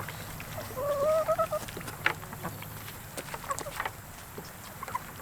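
Chickens calling and clucking: one drawn-out call about a second in, then short, sharp clucks.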